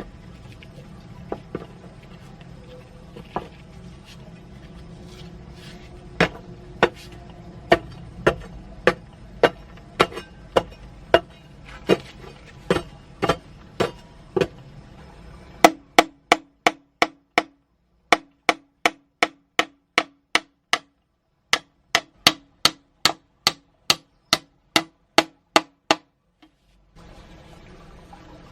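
Steady hammering, about one and a half to two blows a second, over a steady hiss for the first half. In the second half the hiss drops out and each blow rings with a short pitched tone.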